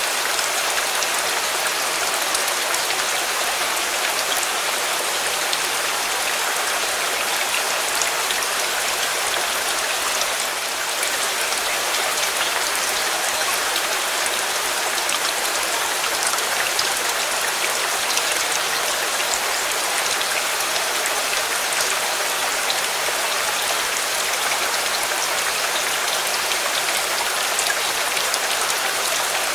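Steady rain falling and pattering on a surface, an even hiss with scattered drop ticks throughout.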